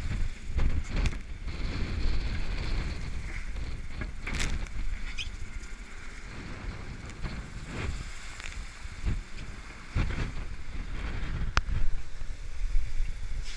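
Wind buffeting the microphone aboard a sailboat under way, with a gusty low rumble and a rushing hiss. A few short knocks and clicks come through now and then.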